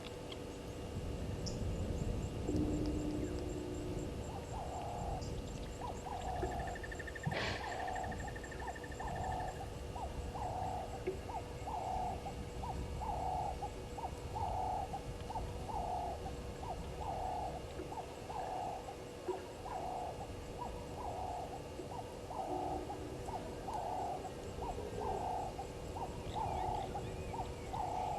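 An animal at the waterhole calling a steady series of short hooting notes, about one a second, starting a few seconds in. Thin steady insect tones run behind it, and a brief buzzy sound with a sharp click comes in about a quarter of the way through.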